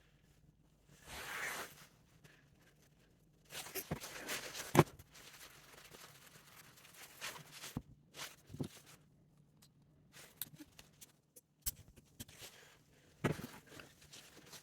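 Scattered light clicks and knocks of lathe headstock parts being handled and fitted by hand, with a short scraping rustle about a second in and a sharper metallic click a little before the five-second mark.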